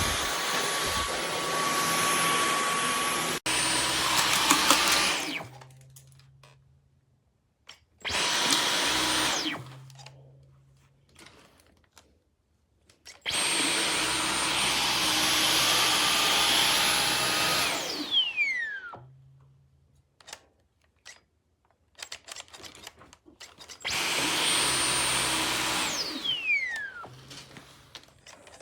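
Dyson V15 Detect cordless stick vacuum's motor running in four spells of several seconds each, with a steady high whine. Each spell stops as the trigger is released, and twice the whine falls in pitch as the motor spins down.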